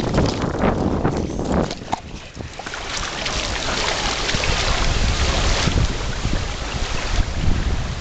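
Wind buffeting the microphone, a dense rumbling noise that grows stronger a few seconds in, with a few short knocks near the start.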